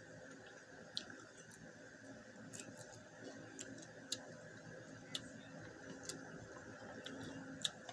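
Faint, irregular sharp clicks of someone chewing shell-on shrimp, about one a second, over a low steady hum.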